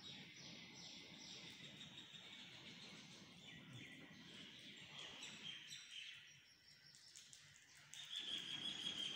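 Birds chirping faintly, a steady scatter of short high chirps that grows louder near the end.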